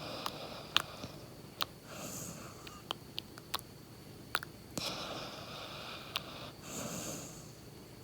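Nine-month-old yellow Labrador retriever snoring and snuffling in its sleep: a few rasping breaths through the nose, with sharp little clicks between them.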